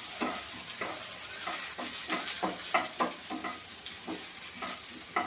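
Chopped onion and garlic cloves sizzling in hot oil in a frying pan, stirred with a wooden spatula that scrapes the pan in quick repeated strokes, about three a second.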